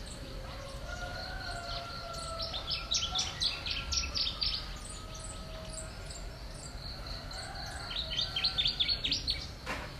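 Small birds chirping in quick runs of notes, first about two and a half seconds in and again near the end, over a steady high insect drone.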